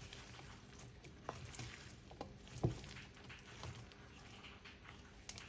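Faint scattered light taps and clicks of handling, with one soft knock about two and a half seconds in.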